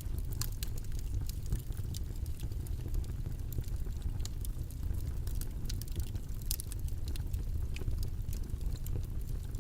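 Steady low-pitched background noise from a white-noise track, with scattered faint clicks and ticks over it.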